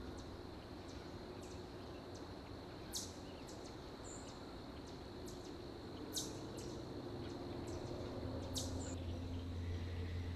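Early-autumn field ambience: insects keep up a steady high-pitched drone with scattered faint ticks, while a bird gives three short, sharp, high calls about three seconds apart over a low steady rumble.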